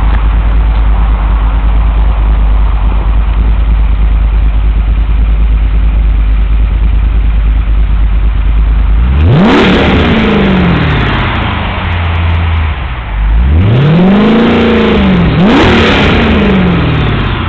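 Car engine running through a Billy Boat aftermarket exhaust with a deep note. It idles steadily, then from about nine seconds in it is revved three times: a quick blip that rises sharply and falls back, a slower rise and fall, then another quick blip.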